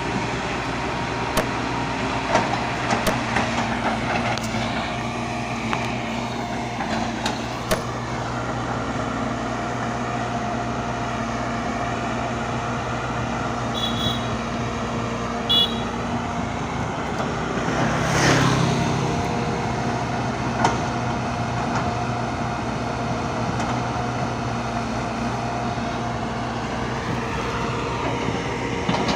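Heavy machinery engine running steadily, with scattered sharp clicks or knocks and a brief louder swell about eighteen seconds in.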